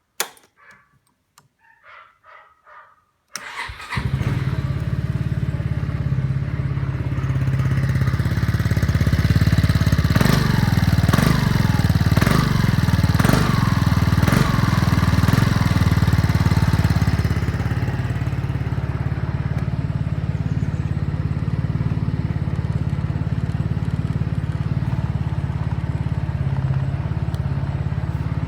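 Yamaha Grand Majesty SG03J scooter's single-cylinder four-stroke engine starting about three seconds in. It runs, is revved in several quick blips around ten to fifteen seconds in, then settles to a steady idle.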